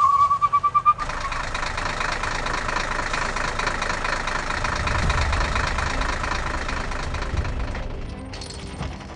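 A vehicle engine running steadily, after a warbling, rapidly pulsing whistle-like tone in the first second; the engine sound changes near the end.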